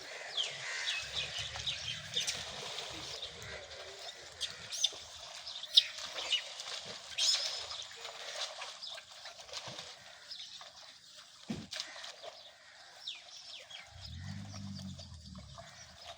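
Busy outdoor animal chatter: many short, high chirps and squeaks come irregularly over a steady hiss, with a sharp click about six seconds in. A low hum comes and goes briefly near the start and again near the end.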